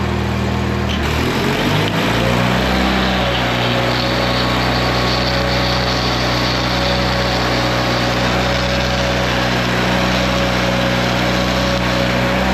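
Small engine of a Bobcat engine-driven stick welder running; its speed shifts and climbs between about one and three seconds in, then holds steady.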